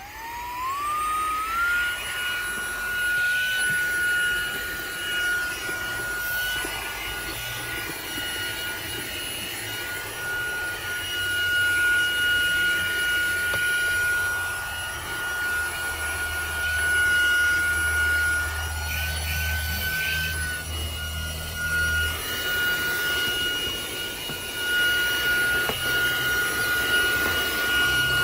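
ZARIMI cordless handheld car vacuum's brushless motor switching on and spinning up. Its high whine rises over the first two seconds and then holds at a steady pitch over a rush of air.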